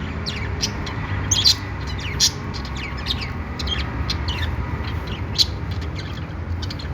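Pet budgerigars chattering: many quick, overlapping chirps, several falling in pitch, over a steady low hum.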